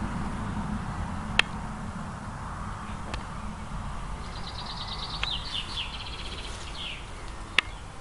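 A small bird singing a short, rapid trill midway through, over a low outdoor rumble that slowly fades. A few sharp clicks stand out, the loudest near the start and near the end.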